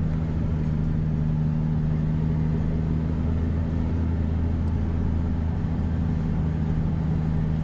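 A vehicle engine running steadily at constant speed, a low, even hum that does not change in pitch.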